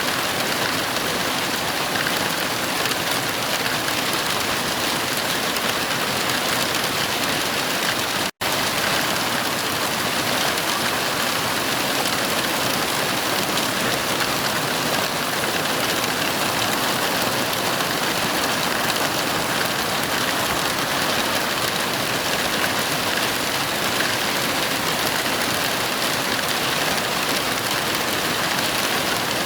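Heavy rain falling steadily, an even hiss with no thunder. The sound cuts out for an instant about eight seconds in.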